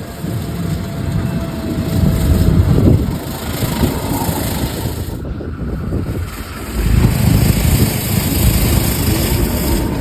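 Outdoor storm ambience: a gusting low rumble of wind on the microphone mixed with vehicle engine and traffic noise, with an abrupt change of sound about halfway through.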